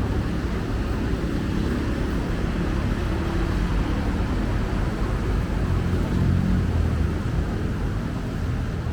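City road traffic passing: a steady low rumble of cars and buses, swelling about six seconds in as a heavier vehicle goes by.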